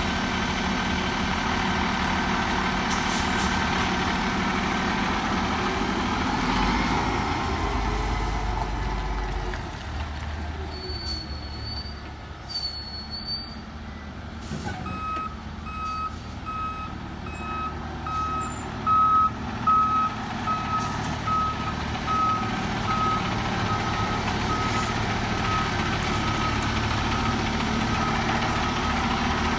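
Fire engine's diesel engine running, joined about halfway in by its reversing alarm beeping at a steady pace as the truck backs up, with a few brief louder sounds about two-thirds of the way in.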